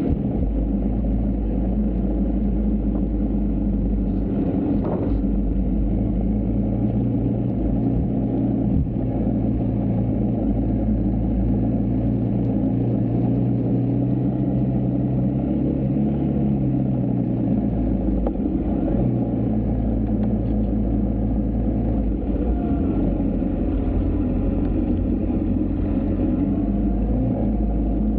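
Husqvarna Svartpilen 401's single-cylinder engine running steadily on the move. Its note drops for a moment about two-thirds of the way through, then picks up again.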